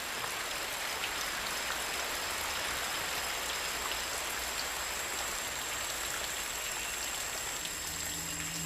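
Steady, heavy rain falling on forest leaves, an even hiss with no let-up. Soft music comes in near the end.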